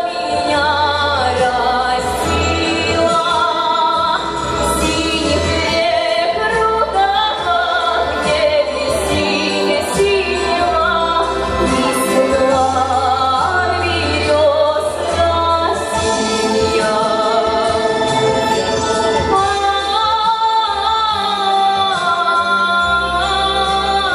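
A woman singing a Russian song with vibrato over a backing track with a steady bass line.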